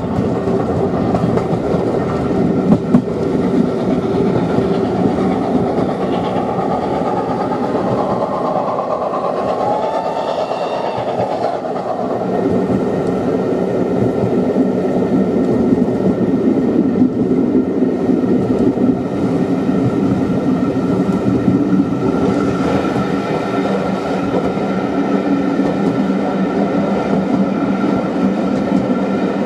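Steam-hauled passenger train heard from inside a carriage, running steadily along the line. The running noise stays even, with a brief tone that rises and falls about ten seconds in.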